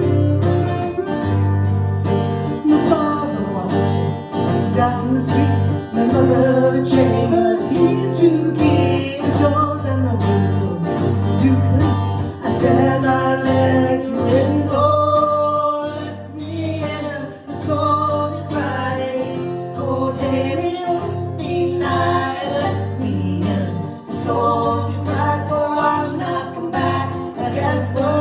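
Fiddle and acoustic guitar playing a traditional folk tune, with the fiddle carrying a moving melody over steady guitar accompaniment.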